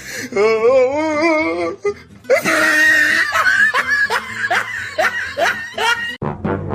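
A person laughing hard: a long wavering laugh, then a run of short repeated bursts of laughter about three a second, which cut off suddenly near the end.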